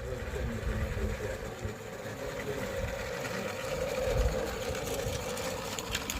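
Small live-steam garden railway locomotive running, a steady mechanical sound with light ticks near the end.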